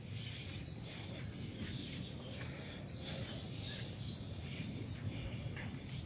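Birds chirping: a scattering of short, high calls, some falling in pitch, over faint outdoor background noise.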